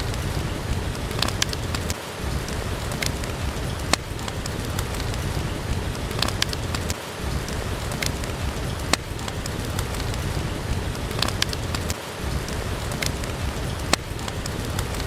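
Steady rain falling, with scattered sharp crackles from a wood fire burning in a fireplace.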